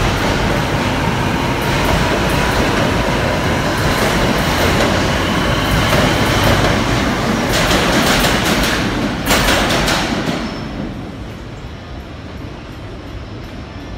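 NJ Transit GE Arrow III electric multiple-unit cars rolling past close by, a loud steady rumble of wheels on rail. A run of sharp wheel clicks over rail joints comes about eight to nine seconds in. The sound drops off sharply after about ten seconds, leaving quieter train noise.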